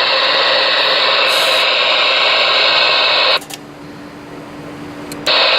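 Receiver static hissing from a Galaxy DX-98VHP ten-meter radio's speaker, with a faint steady hum underneath. The hiss drops out for about two seconds a little past halfway, then comes back.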